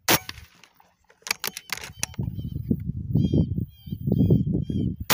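A sharp click at the start and a few more clicks about a second in, then a low rumble of handling noise with about six short, quick bird chirps over it in the second half.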